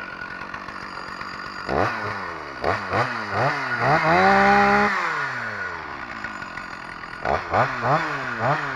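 Two-stroke chainsaw revving up and down repeatedly, with the revs held high for about a second around the middle.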